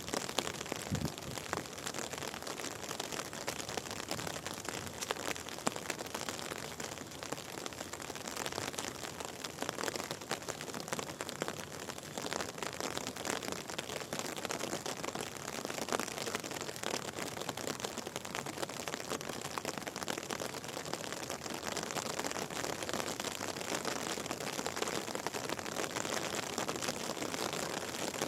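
Steady rain, a dense patter of many fine drops.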